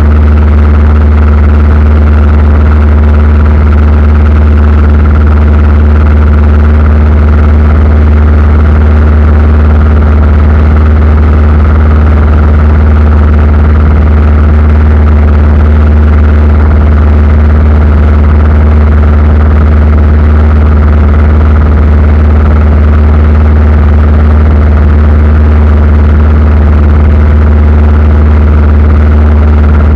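Aircraft engines droning steadily: a loud, deep, unchanging hum with layered engine tones above it.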